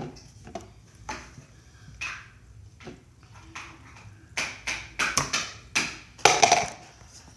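Slime being squished and worked by hand: a run of wet clicks and pops, thickest from about four and a half to six and a half seconds in.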